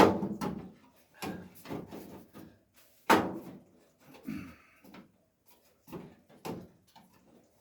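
Irregular metal knocks and clatter from hands-on bodywork on the car, a panel or tools being handled against the body. The loudest knocks come at the start, about three seconds in and near the end.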